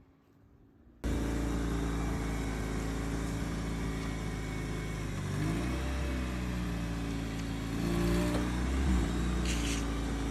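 Toyota MR2's swapped-in 2ZZ-GE 1.8-litre four-cylinder engine running under way, starting abruptly about a second in. Its pitch swings up and down twice, around the middle and again near the end, as it revs.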